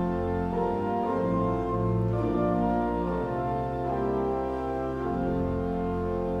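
Church organ playing slow, sustained chords over held bass notes, with the chords changing every second or so: closing music of the service after the benediction.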